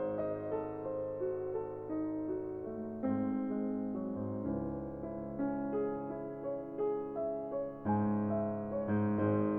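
Background piano music: a solo piano playing slow chords and a melody.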